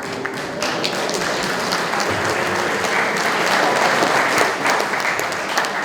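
An audience applauding in a large hall, the clapping building to a peak around the middle and easing off near the end.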